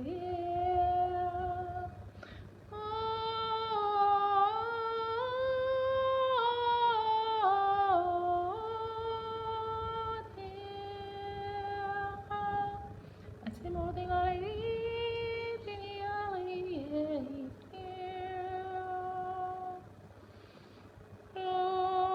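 A woman humming long wordless notes, holding each pitch and stepping or sliding between them, with short pauses for breath; a vocal toning of healing sound frequencies.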